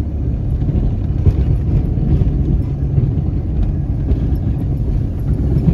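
Ford F-250 pickup truck driving through snow on chains, a steady low engine and road rumble.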